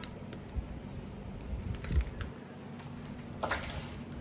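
Light clicks, a soft knock and a brief rustle as frozen food packages are handled in a freezer.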